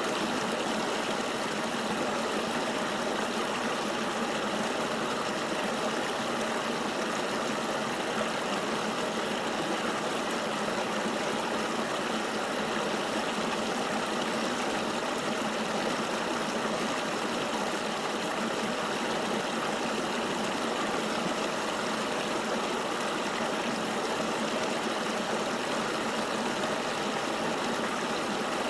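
Flowing river water: a steady, even rush with no low rumble.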